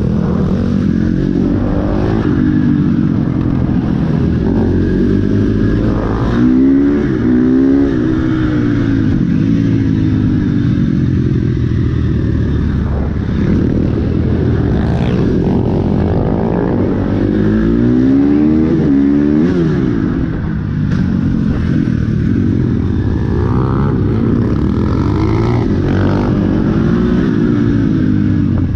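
Dirt bike engines running loud and steady, revving up and shifting through the gears several times, the pitch climbing and dropping back with each change.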